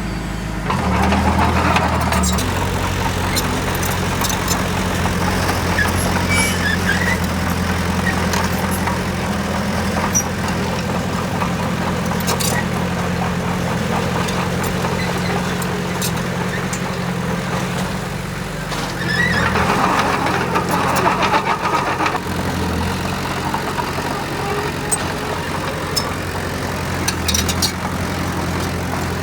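Diesel engine of heavy construction machinery running steadily, with two stretches of louder, rougher mid-pitched noise about a second in and again roughly two-thirds of the way through.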